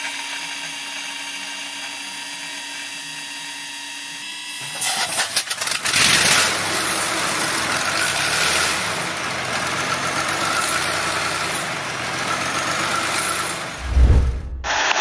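Zvezda M400 marine diesel starting: a steady whine of several tones, then uneven sputtering bursts as it cranks, before it catches about six seconds in and runs loud and steady. A low heavy thump comes near the end, just before the sound cuts off.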